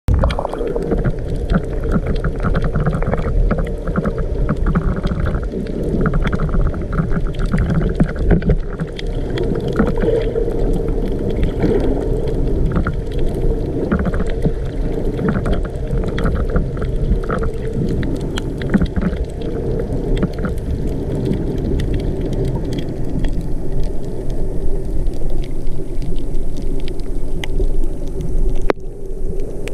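Muffled underwater rumble and gurgling of water moving around a camera held below the surface, with many scattered faint clicks. The sound cuts off abruptly near the end.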